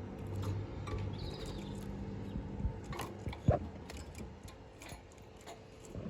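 Canaries in a cage: scattered small clicks and taps with a faint brief chirp about a second in, and one louder knock about three and a half seconds in. A low hum fades out partway through.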